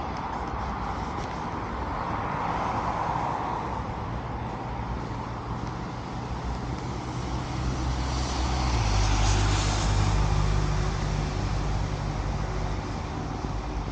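Street traffic: a motor vehicle passes close, loudest about nine or ten seconds in, over a steady low engine hum that grows stronger after it.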